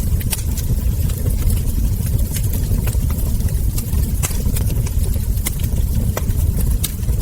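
Wood fire burning with a steady low rumble and frequent sharp crackles and ember pops scattered irregularly throughout.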